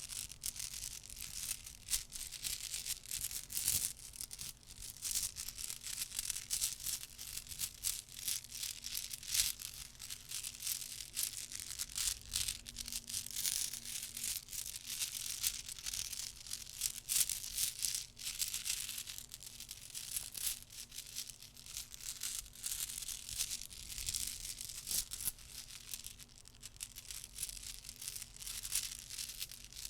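Dense, irregular soft clicks and scratchy crackling from a small object handled close to the microphone as an ASMR trigger, going on without a pause.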